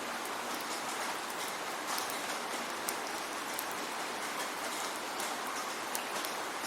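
Steady rainfall: an even hiss of rain, with scattered distinct drops ticking on a surface.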